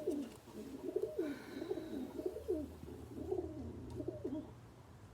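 Domestic pigeons cooing: a run of low, rolling coos that fades out about four and a half seconds in.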